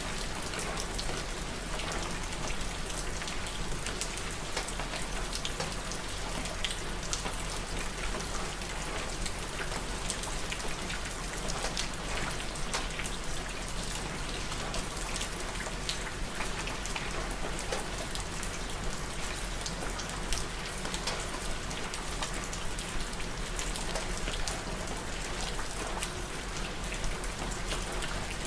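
Steady rain falling, with many distinct drop hits ticking over an even hiss.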